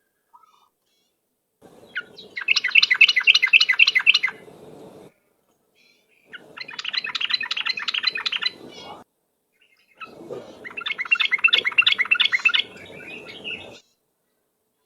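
Yellow-vented bulbul (trucuk) singing its rapid, chattering 'ropel' song in three bursts of about three seconds each, with short silences between them.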